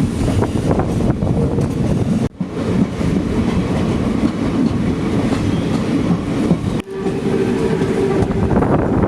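Passenger train running, its wheels rumbling and clattering on the track. The sound drops out briefly twice, and a thin steady whine joins from about seven seconds in.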